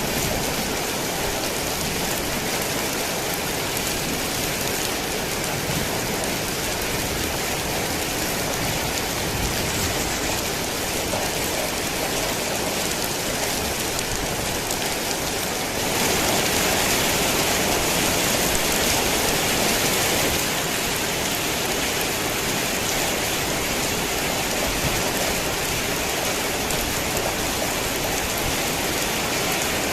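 Heavy rain falling steadily, an even hiss of drops on surfaces that turns louder for a few seconds about halfway through.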